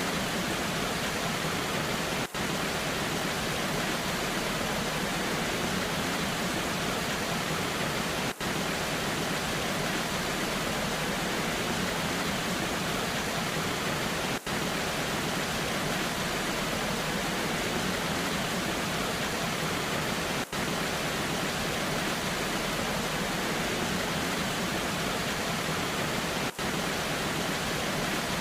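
Waterfall pouring in the rain: a steady, even rush of water. A very brief dropout in the sound comes about every six seconds.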